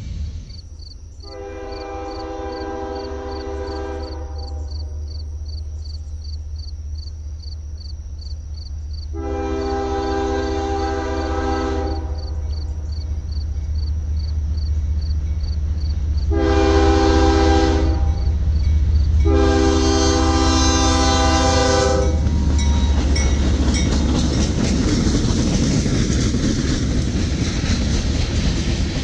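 A freight train's diesel locomotive horn sounds the grade-crossing signal of two long blasts, a short one and a long one, over the steady ringing of the crossing bell and a low engine rumble. After the last blast the train rolls through the crossing and the covered hopper cars clatter over the rail joints.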